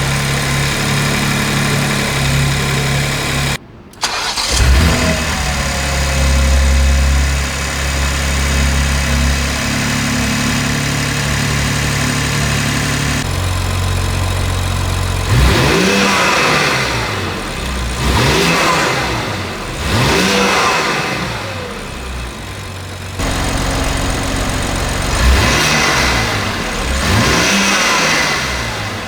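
BMW X4M Competition's twin-turbo 3.0-litre straight-six, fitted with an Akrapovic exhaust and Eventuri carbon intake, idling steadily, then blipped in a series of quick free revs, each rising and falling, several in a row.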